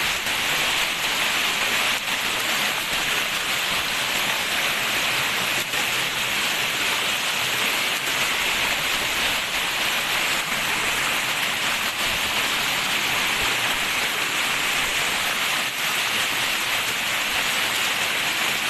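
Waterfall: a steady, unbroken noise of falling water.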